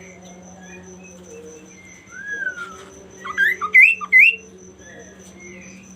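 A songbird singing a whistled phrase: a slurred falling note about two seconds in, then three loud, quick up-sweeping whistles, with softer chirps from other birds around it.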